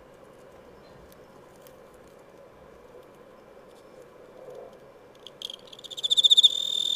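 A cricket chirping: after several seconds of faint background hiss, a high-pitched chirp starts about five seconds in as a rapid run of pulses, then settles into a continuous high trill.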